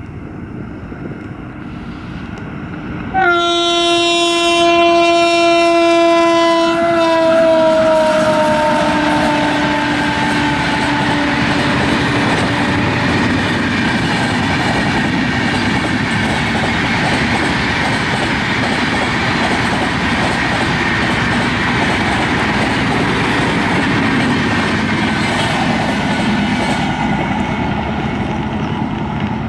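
Indian Railways WAP-7 electric locomotive sounding a long horn blast starting about three seconds in, its pitch dropping as the train passes. The loud, steady noise of the passenger coaches running by on the rails follows and eases off near the end.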